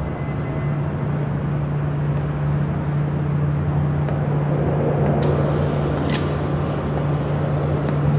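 Ferrari sports car engine idling steadily with a low hum, with a couple of short clicks about five and six seconds in.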